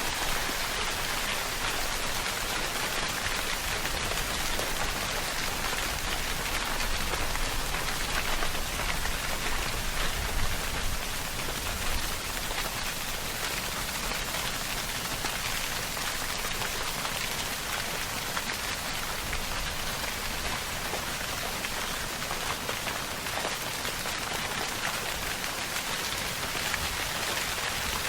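Steady, heavy rainfall: a dense, even hiss of rain with many individual drop impacts, holding level throughout.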